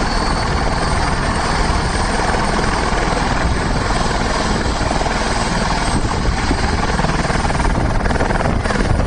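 Helicopter running close by: loud, steady rotor and engine noise.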